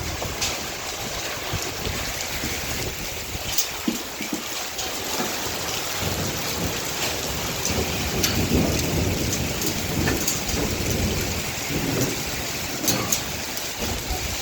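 Hailstorm with heavy rain: a dense steady hiss of falling rain and hail, with scattered sharp ticks of hailstones striking hard surfaces. A deeper low rumble swells in the second half.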